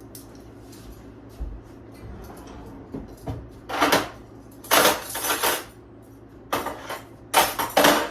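Dishes and utensils being handled in a kitchen: four short, noisy clattering bursts over a low steady hum.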